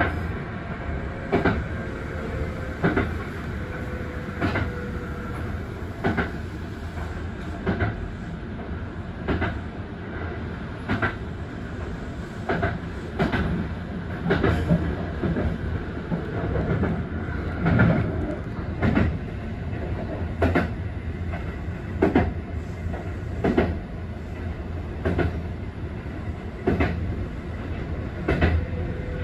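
Kintetsu Urban Liner limited express electric train running along the line, heard from the cab end: a steady rumble with regular clickety-clack as the wheels cross rail joints, about one clack every second and a half.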